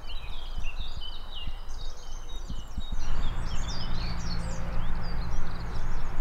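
Several birds singing and chirping over one another in quick, overlapping phrases. Beneath them is a low rumble that grows louder and steadier about three seconds in.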